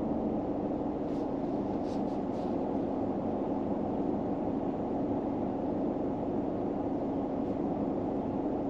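Steady low rumble with a faint steady hum inside a car cabin, with a few faint light ticks about a second or two in.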